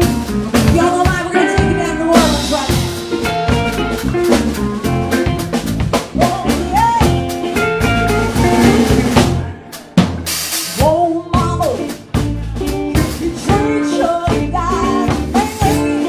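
Live blues band playing a song, the drum kit prominent with bass drum and snare under bass and pitched instrument lines, with a brief break about ten seconds in.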